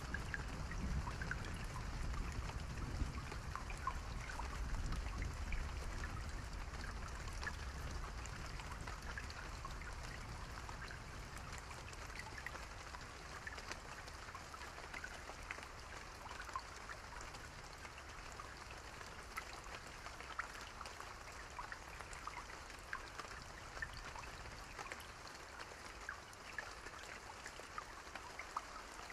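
Soft steady rain mixed with a crackling campfire: an even hiss dotted with many small scattered pops and ticks, over a low rumble that fades away during the first half.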